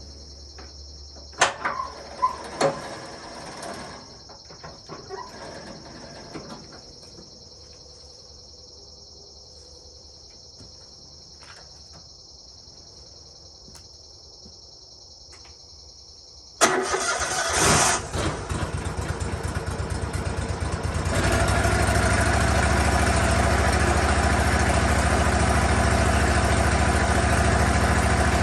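Insects trilling steadily, with a few sharp knocks early on, then about two-thirds of the way through the Lucas Mill sawmill's engine starts abruptly and runs. A few seconds later it steps up to a higher, louder steady speed as it is throttled up.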